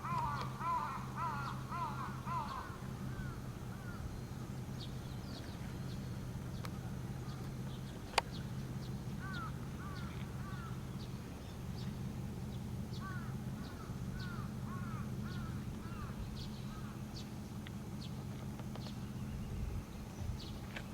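Birds calling in bursts of quick, arched cries, heaviest at the start and again around the middle. A steady low hum runs underneath, and a single sharp click comes about eight seconds in.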